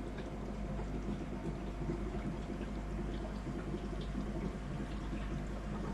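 Steady running-water noise over a low, even hum, with a few faint ticks.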